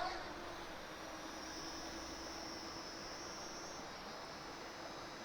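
Parrot Anafi quadcopter drone's motors and propellers running after takeoff: a steady high whine that steps up in pitch about a second and a half in and drops back near the end, over a steady rushing hiss.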